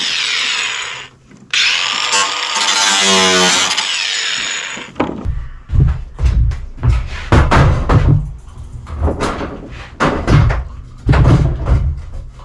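Power drill running in two bursts, cutting off about a second in and again just before five seconds in. A series of irregular heavy thumps and knocks follows.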